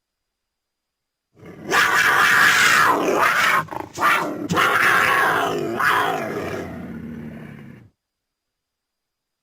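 A big cat's roaring growl played as a sound effect. It starts abruptly about a second and a half in, breaks off briefly near the middle, and then trails away, with dead silence before and after.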